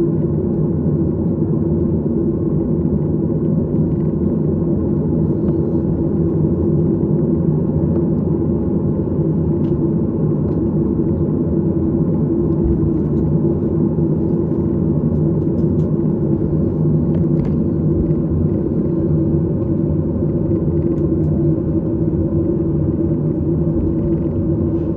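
Airliner engines heard inside the passenger cabin: a steady low rumble with a constant hum running through it.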